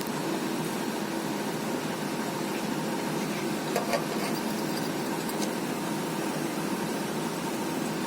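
Heavy machinery engine running steadily, with a couple of faint knocks about four seconds in.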